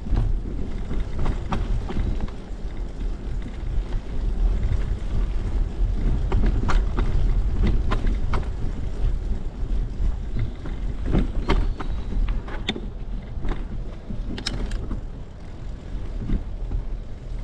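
Wind rumbling on the microphone of a bicycle being ridden, with tyre noise and scattered sharp clicks and rattles from the bike over the trail surface.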